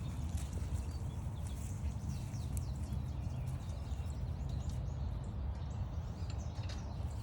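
Songbirds chirping and calling with short, quick high notes, over a steady low rumble.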